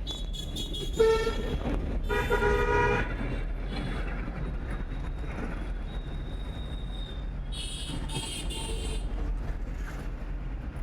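Vehicle horn honking in street traffic: a short beep about a second in, then a louder, longer honk about two seconds in. Near the end a higher-pitched sound comes three times in quick succession, over a steady low rumble of traffic.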